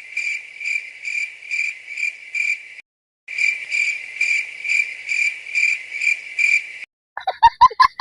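Cricket chirping: a steady, high-pitched series of chirps about twice a second, in two runs with a short break around three seconds in. Near the end a loud, rapidly warbling call cuts in.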